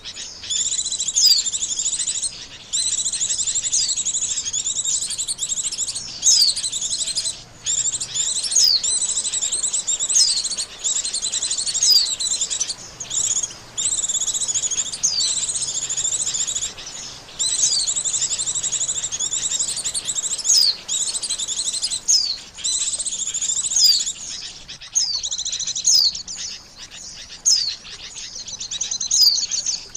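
White-eye (pleci) song used as a bird-catcher's lure call: long runs of fast, high twittering chirps, broken by short gaps every few seconds.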